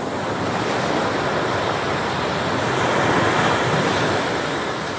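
Ocean surf breaking on the beach: a steady rush of water that swells to a peak about three seconds in and then eases off.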